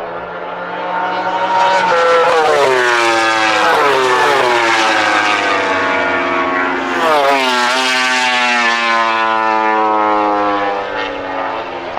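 MotoGP race motorcycles at high revs passing on track, the engine pitch climbing and dropping sharply with gear changes. The sound builds about a second in, stays loud through the middle and eases off near the end.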